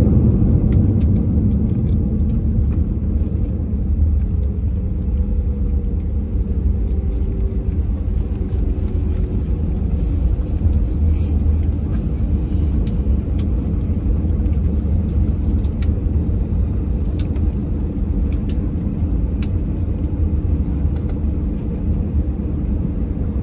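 Steady low rumble inside an Airbus A321 cabin as the airliner rolls along the ground just after landing, easing off slightly in the first few seconds, with faint scattered rattles and clicks.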